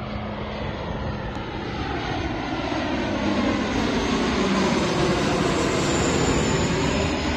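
Airplane engines passing by: a dense roar that grows louder over several seconds to a peak about two thirds of the way through, with a faint high whine and slowly sweeping tone changes as the aircraft moves.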